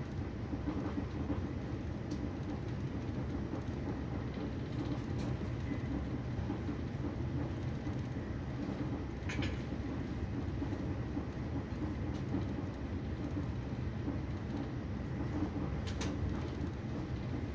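Steady rumble of a passenger train running at speed, heard from inside the carriage, with two sharp clicks, about nine seconds in and near the end.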